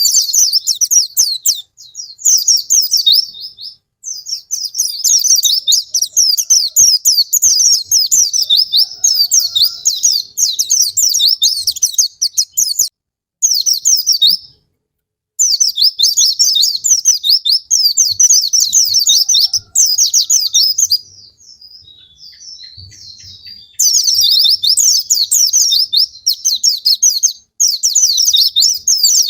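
White-eye (pleci) song: fast, high twittering phrases of rapid chirps, each a few seconds long with brief pauses, softer for a couple of seconds about two-thirds of the way in. It is a lure song meant to set caged white-eyes singing.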